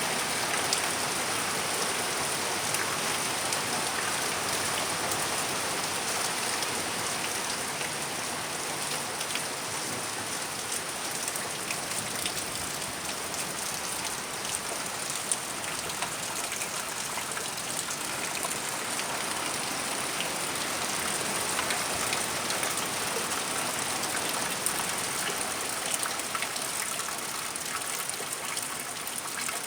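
Steady rain falling in a thunderstorm: an even hiss with scattered sharp ticks of drops striking close by. No thunder is heard.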